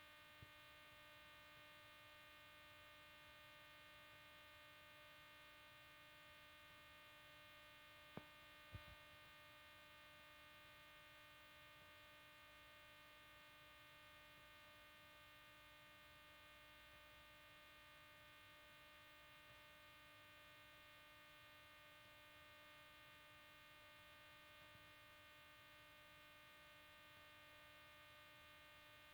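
Near silence with a faint steady electrical hum or whine of several held tones, and two faint clicks about eight seconds in.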